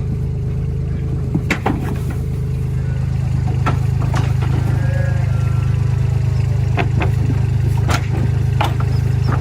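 An engine running at a steady speed, with scattered knocks and clanks over it.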